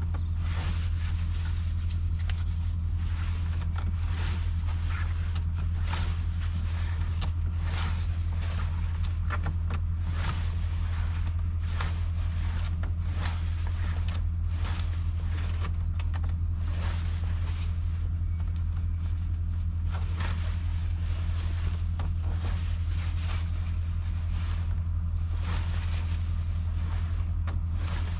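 Steady low drone of a Scania R450 truck's diesel engine heard from inside the cab, with irregular light clicks and rattles on top.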